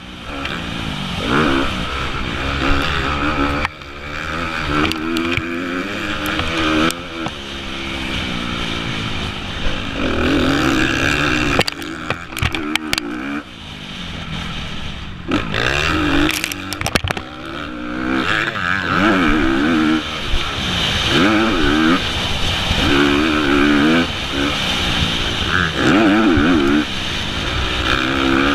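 Honda CRF250 motocross bike's single-cylinder four-stroke engine heard from an onboard camera, revving hard and dropping back again and again as the rider works through the gears around the track. A steady rush of wind noise runs under it, and there are sharp knocks several times in the middle.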